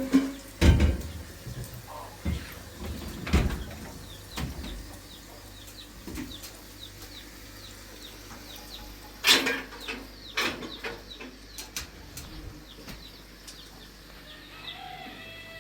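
Several sharp knocks and thuds, with many short high chirps between them and a chicken clucking near the end.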